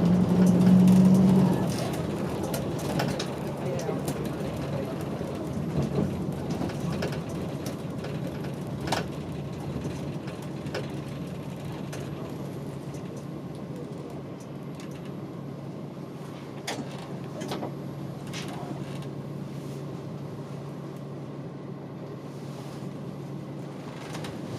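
Route bus running, heard from inside the cabin: a steady low engine hum that is louder for the first second or so and then eases off, over road noise, with scattered short rattles and clicks.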